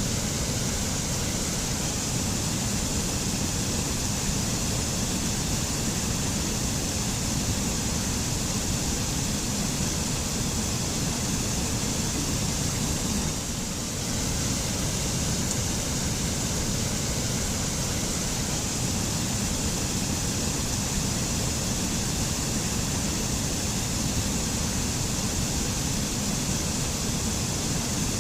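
Mountain waterfall in a forest, a steady rush of falling water, with a brief dip about halfway through.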